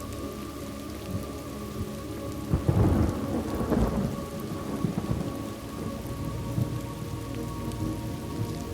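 Steady rain with a rumble of thunder that swells about two and a half seconds in, is loudest over the next second or so, and fades back into the rain.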